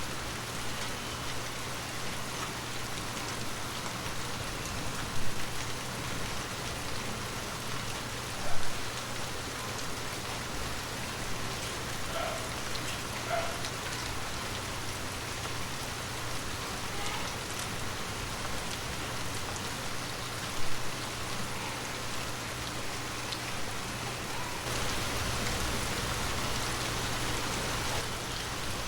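Heavy rain falling steadily in an even hiss, with three short, louder drop hits about 5, 8 and 20 seconds in. The rain swells a little near the end.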